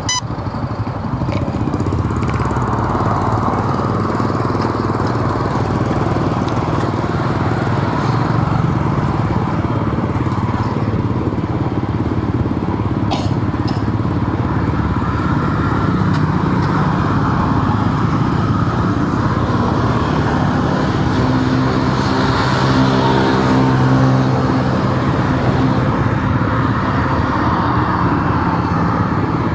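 Steady road noise while driving in city traffic: a vehicle engine running continuously, its engine note most distinct in the second half, with a couple of brief clicks about 13 seconds in.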